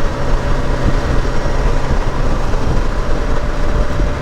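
Honda Gold Wing GL1800 motor trike cruising at a steady speed: its flat-six engine runs steadily under a constant rush of road and wind noise, with no change in pace.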